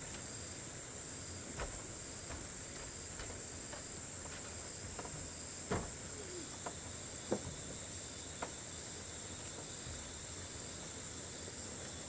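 Steady high insect chorus of crickets or cicadas, with a few scattered short knocks, the loudest about six and seven seconds in.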